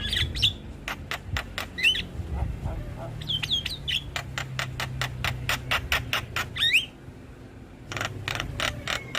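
Javan myna song: a rapid run of sharp clicks and harsh notes mixed with short whistled glides, breaking off briefly about seven seconds in before starting again.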